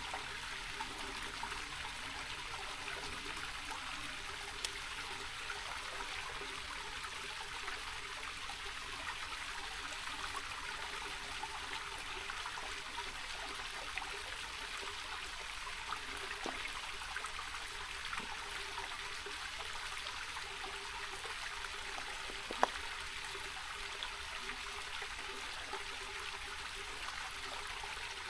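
Small rocky mountain creek running and trickling over stones in a steady rush, with a single sharp click about two-thirds of the way through.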